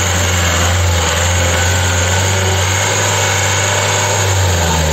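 Engine of a Tata SUV running at low revs as the vehicle crawls slowly over loose rock, a steady low drone.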